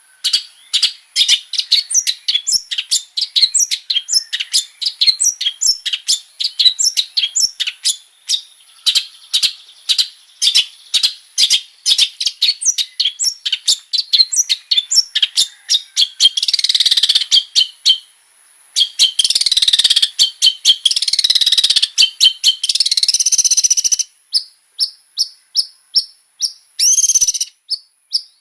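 Long-tailed shrike (cendet) singing hard: rapid, repeated chattering notes, about three or four a second, running into a dense unbroken warble about two-thirds of the way through, then back to evenly spaced short notes near the end.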